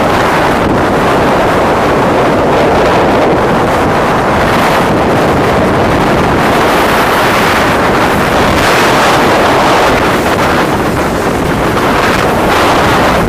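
Storm-force mountain wind blasting across the microphone: a loud, steady rush of wind noise with a low rumble underneath.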